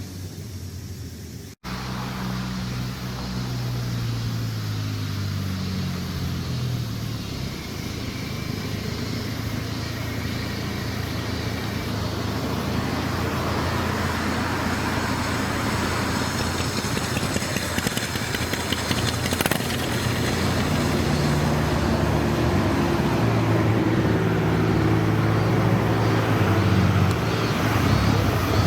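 Car engine running, its pitch shifting up and down and its sound growing gradually louder. A brief dropout comes about a second and a half in.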